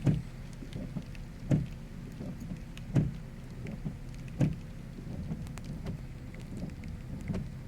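Steady low rumble of a car in the rain, with four evenly spaced thumps about a second and a half apart in the first half.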